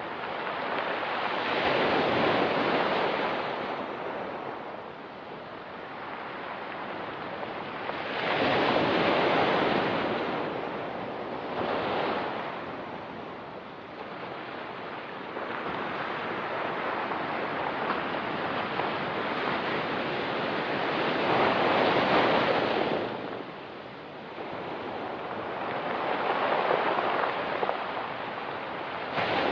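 Ocean waves breaking and washing on a rocky pebble beach. The surf swells and eases every several seconds, with about five surges over the half minute.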